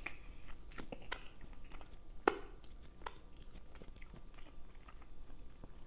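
Close-miked chewing and wet mouth sounds: irregular smacks and clicks while food is eaten, with one sharp click a little over two seconds in.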